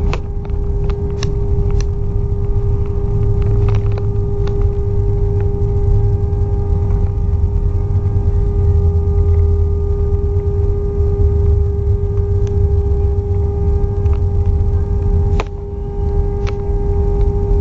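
Airbus A321 cabin noise: a steady low rumble with a constant engine hum, and a few faint clicks.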